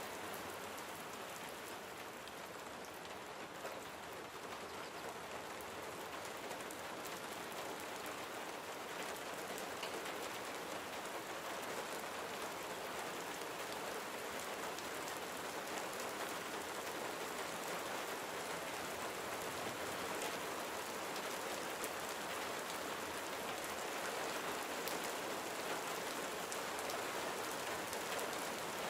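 Gentle rain falling steadily, an even hiss of many small drops pattering on surfaces, growing slightly louder over the stretch.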